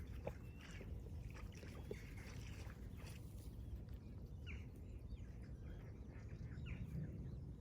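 Small birds chirping in short, quick falling notes, over a steady low rumble.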